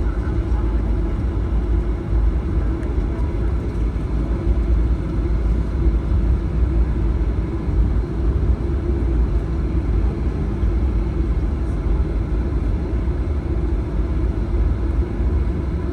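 Steady low rumble of cabin noise inside a Boeing 737-900 as it taxis after landing.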